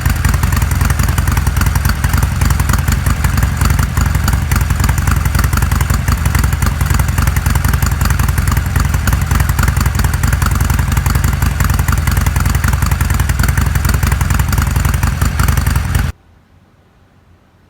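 Harley-Davidson Roadster XL1200CX's air-cooled 1200 cc V-twin running steadily through its exhaust, with no revving, then cutting off abruptly near the end.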